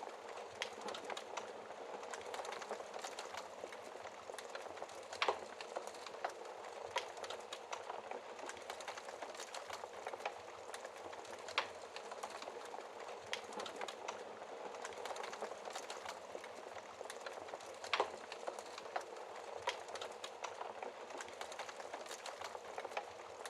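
Wood logs burning in a fireplace: a steady soft hiss of flames with irregular crackles and pops, a few louder sharp pops at about 5, 11 and 18 seconds in.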